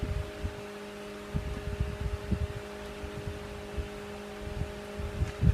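Steady machine hum with scattered dull knocks and bumps as the metal lathe's carriage lock is released and its controls are handled to check the cut.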